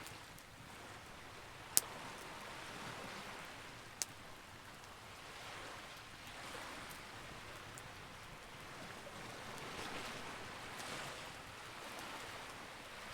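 Campfire crackling, with two sharp pops, one about two seconds in and one about four seconds in, over a rushing hiss that swells and ebbs every few seconds.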